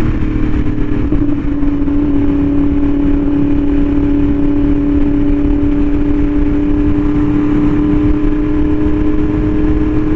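Yamaha R1M's crossplane inline-four, breathing through an SC Project exhaust, running at a steady cruise. The engine note dips slightly right at the start, then holds one pitch, over a steady low rumble.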